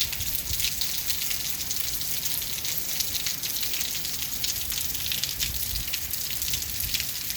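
Heavy rain and hailstones pelting down: a dense steady hiss of falling drops, broken by many sharp ticks of hits on hard surfaces.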